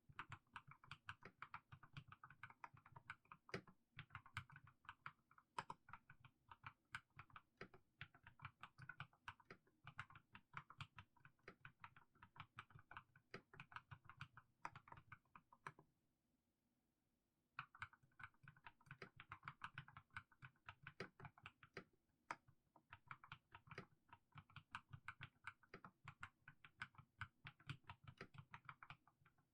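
Mechanical keyboard with fully lubricated Haimu Sea Salt switches being typed on, a steady stream of faint keystroke clacks. The typing stops for about a second and a half near the middle, then picks up again.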